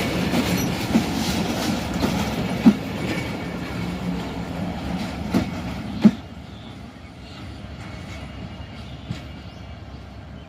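Passenger train running on the rails: a steady rumble with sharp wheel knocks over rail joints a few times. About six seconds in the sound drops away to a quieter rumble.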